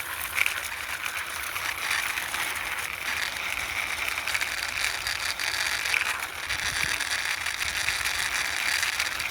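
Plastic toy car pushed by hand along the floor, its wheels and gears giving a steady, rapid clicking rattle.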